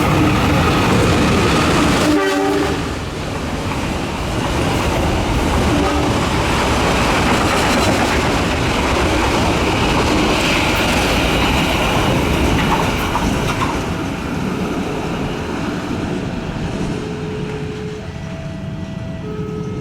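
Diesel-hauled passenger train passing close by. Its horn sounds for the first couple of seconds, followed by the steady rumble of the carriages' wheels on the rails, easing off near the end.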